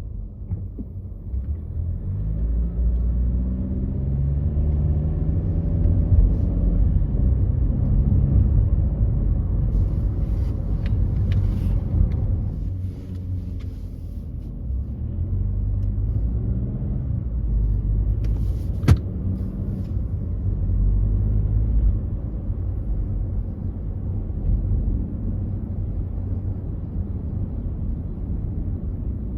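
A car driving: a steady low engine and road rumble, with the engine note climbing as it accelerates during the first few seconds and again a little after the middle, and one sharp click a little past halfway.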